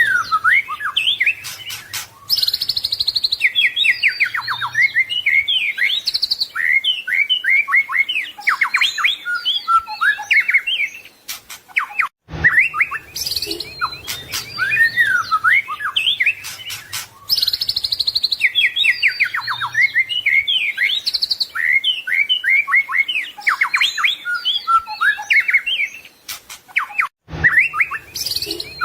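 White-rumped shama (murai batu) singing a fast, varied song of whistles, trills and mimicked calls. The song passage is looped: it breaks off briefly about halfway through and the same passage starts over.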